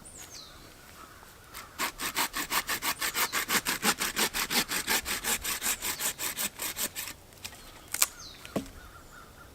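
A hand saw cutting through dead standing wood in quick, even rasping strokes, about five a second, for some five seconds, then stopping. A sharp click follows about a second later.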